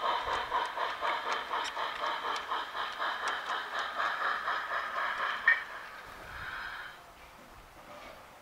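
Model steam locomotive of HSB 99 222 on a garden railway, chuffing evenly about five times a second with wheels clicking over rail joints; a sharp click about five and a half seconds in, then the train sound fades away.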